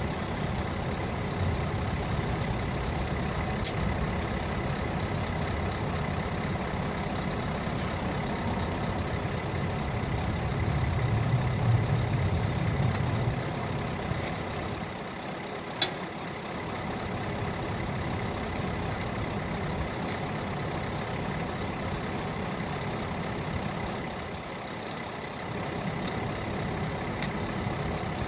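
Scania R660 lorry's V8 diesel engine running steadily, swelling louder for a couple of seconds midway. A single sharp click sounds a little past halfway.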